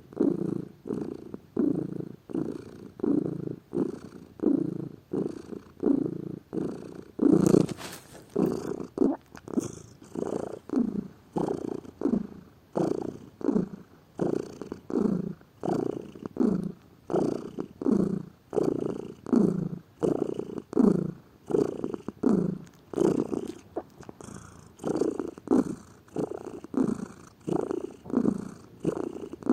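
Domestic cat purring close up, the purr swelling and fading in regular pulses a little over once a second with each breath. There is a brief louder noisy rustle about eight seconds in.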